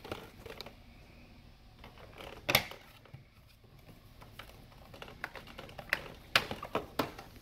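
Irregular plastic clicks and knocks from a vacuum cleaner being handled, with two louder knocks, one about two and a half seconds in and one near the end.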